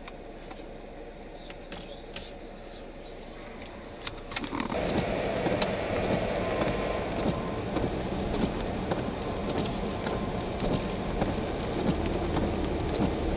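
Quiet storm ambience with a few faint scattered ticks. About four and a half seconds in, it jumps to a louder steady noise of rain and tyres on a wet highway, with many fine raindrop ticks and a low vehicle hum.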